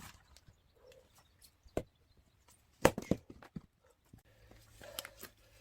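Axe striking firewood rounds: a few sharp knocks, the loudest about three seconds in, followed quickly by a second knock, with smaller clicks and taps between.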